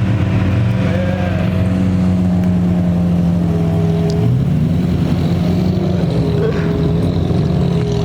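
Car engine droning steadily while driving, its pitch stepping up slightly about four seconds in.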